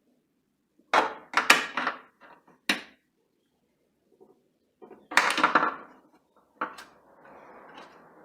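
Clattering knocks from handling the grill's metal housing and parts while a small nut is fitted onto its new switch: a cluster of knocks about a second in, another around five seconds, then a steady scraping stretch near the end as the nut is worked on.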